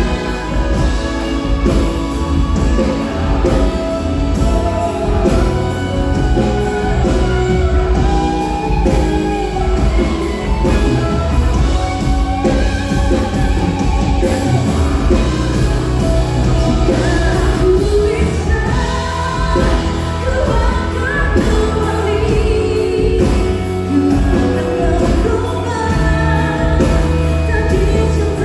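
A live pop band playing, with a singer over a steady drum beat and bass.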